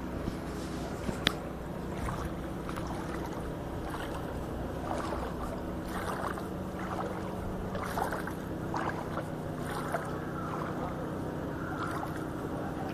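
A motor running steadily under a noisy wash, with scattered knocks and a sharp click about a second in.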